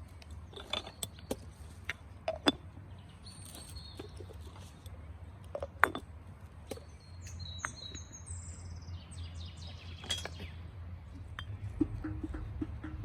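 Small birds chirping in short high calls, among a few sharp knocks and clinks of objects being handled.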